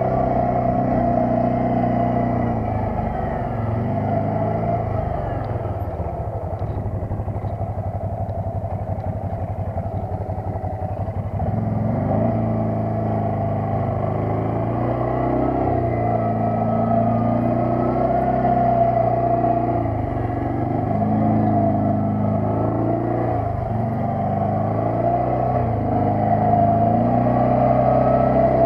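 ATV engine running while riding. It is fairly steady for the first several seconds, then its pitch rises and falls repeatedly as the throttle changes.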